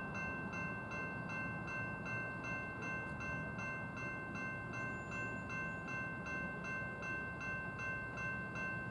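Railroad grade-crossing bell ringing in a steady, quick repeating ding, about three strokes a second, over the low rumble of a passing freight train.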